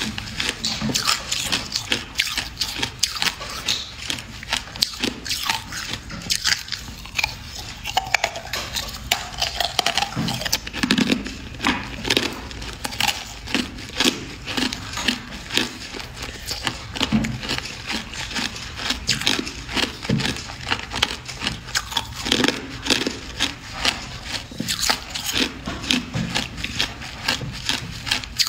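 Hard clear ice being bitten and chewed: a steady, irregular run of sharp cracks and crunches.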